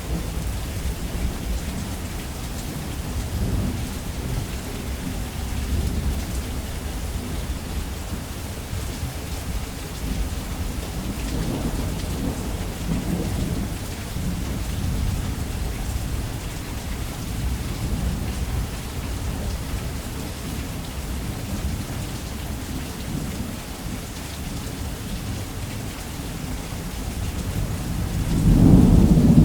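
Heavy rain falling steadily on a roof under continuous low rolling thunder. The thunder swells about halfway through and rises into a louder rumble near the end.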